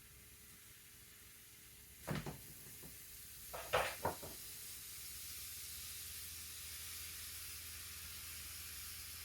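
A few knocks and clatter of kitchen things being handled about two and four seconds in, then a steady faint hiss.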